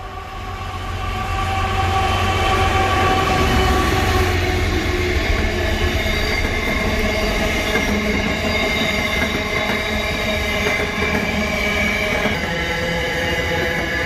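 Diesel-electric freight locomotive passing close by with a low rumble, then container flat wagons rolling past with wheels squealing in several steady high tones. The sound builds over the first two seconds and then stays loud and steady.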